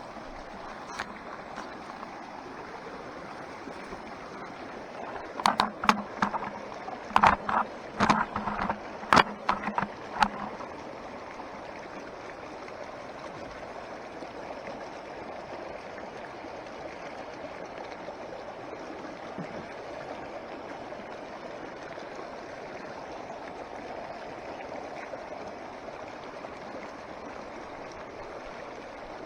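A mountain stream running steadily. About five seconds in, a quick run of sharp knocks and clatters lasts some five seconds, then stops.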